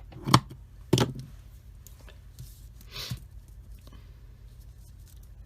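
Two sharp knocks about two-thirds of a second apart, then a short soft rustle, over a faint steady low hum: craft materials being handled and set down on a work table.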